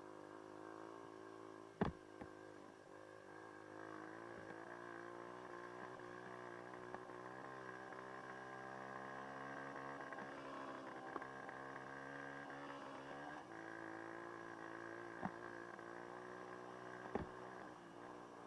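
Dirt bike engine running at a steady pace, its pitch creeping up a little and dropping back about two thirds of the way through. A few sharp knocks come about two, fifteen and seventeen seconds in.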